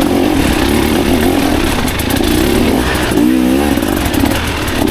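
Dirt bike engine running under load off-road, its pitch wavering up and down a little past three seconds in.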